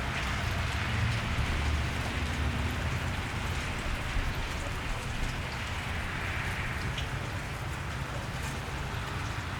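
Steady cold rain falling on a wet street, with scattered drips ticking and a low rumble of light traffic underneath.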